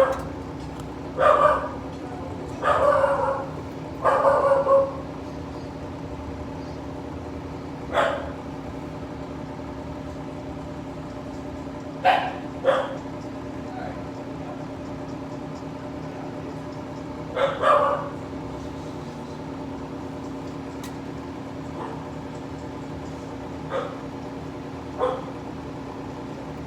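A dog barking in short, loud barks, several close together at first and then scattered, over the steady hum of a long freight train of hopper cars rolling past.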